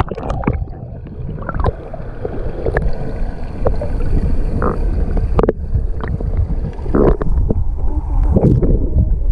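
Muffled underwater rumble of water from a pool waterfall, heard through a submerged camera, with bubbles gurgling and popping throughout.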